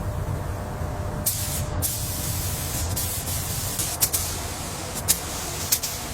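Paint spray gun hissing in repeated short bursts while spraying primer onto bare steel, over a low rumble.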